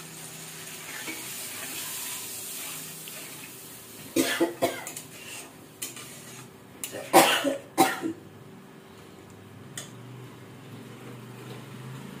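Spice masala sizzling and hissing in a steel kadai as water is added and stirred in with a steel spatula, the hiss fading after the first few seconds. Two loud clusters of short, sharp bursts break in about four and seven seconds in.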